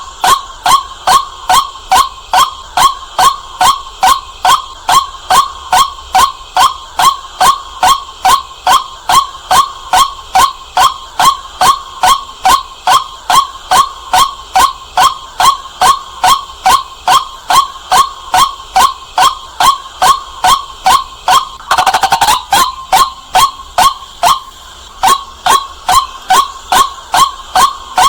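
White-breasted waterhen calling: a loud, clear, rapid series of short 'kwak' notes repeated very evenly, about two and a half a second. A brief rough burst of noise comes about three-quarters of the way through, and the calls break off for about a second soon after before resuming.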